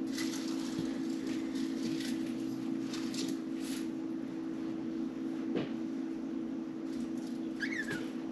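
Budgerigars chirping and chattering in short high calls over a steady low hum, with a single click partway through and a short falling chirp near the end.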